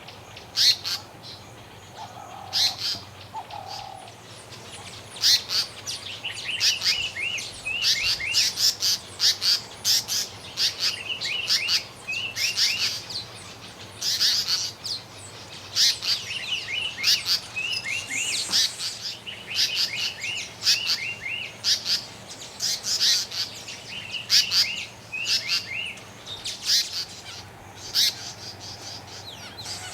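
African paradise flycatcher singing: runs of short, sharp chirps repeated in quick bursts, with brief pauses between them.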